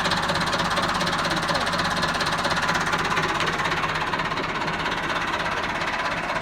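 Diesel tractor engine running steadily with a fast, even knocking beat while pulling a tanker on a tow.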